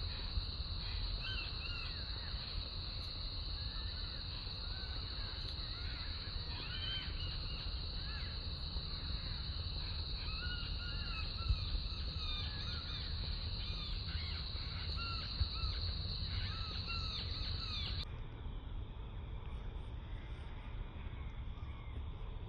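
Open-field ambience: many small birds chirping over a steady high-pitched insect drone and a low rumble. About eighteen seconds in, the drone and the chirps cut off abruptly, leaving only the low rumble.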